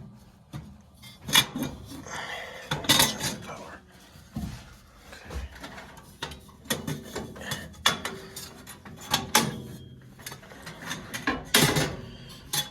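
Metal clanking and rattling from hard objects being handled: a string of sharp knocks and clatters, the loudest about a second in, near three seconds, twice around eight to nine seconds and near the end.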